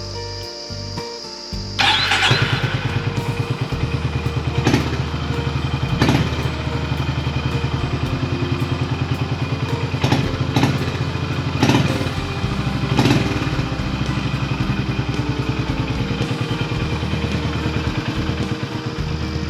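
Honda GB350S single-cylinder engine starting about two seconds in, then idling with an even, fast low pulse and a few brief louder blips, running on new NGK spark plugs.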